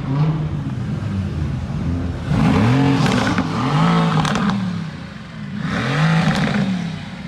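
Mercedes-AMG GT S twin-turbo V8 being revved in several quick blips of the throttle, its pitch rising and falling each time.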